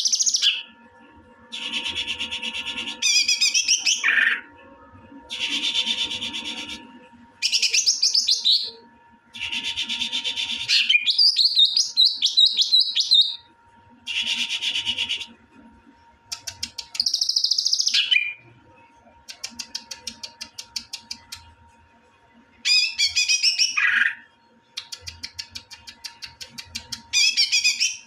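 A songbird singing loudly in repeated phrases of one to two seconds with short pauses between, mixing rapid trills and fast ticking note series.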